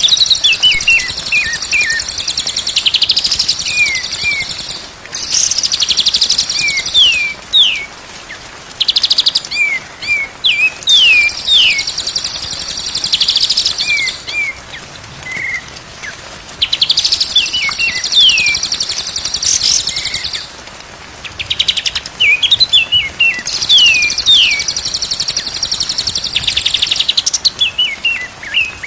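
Songbird song in a tutoring recording: loud bursts of very high, rapid trills lasting a second or two each, alternating with quick runs of short downward-sliding whistles, repeated with brief pauses between phrases.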